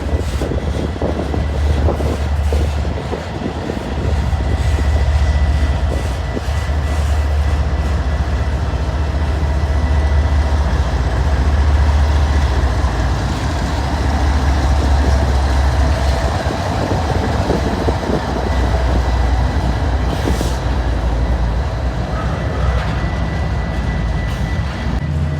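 A Metra commuter train's diesel locomotive running past. A deep engine drone swells and eases, and a thin steady high whine runs over it.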